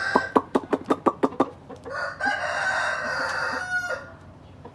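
Chickens: a quick run of about eight sharp clucks, then a long drawn-out call of nearly two seconds.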